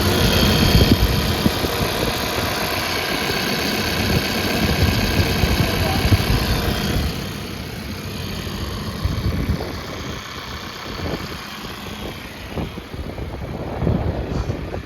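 Case 580N backhoe loader's diesel engine running at idle with the hood open. It is louder for the first seven seconds or so, then drops a little quieter.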